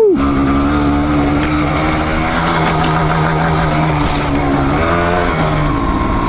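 Dual-sport motorcycle engine running at a steady, even speed on a trail. It settles right after a quick rev at the start, and its pitch shifts slightly about five seconds in.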